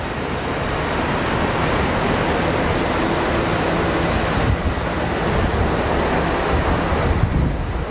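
Jet engine noise: a steady, loud rushing sound spread across low and high pitches, with a faint low hum under it. The high part thins for a moment about halfway through.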